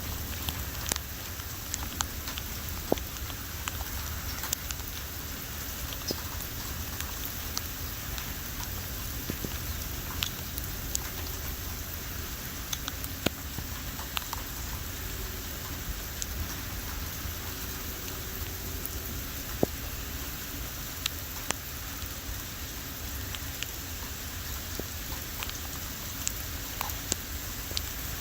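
Steady rain falling, with scattered sharp taps of drops striking close by.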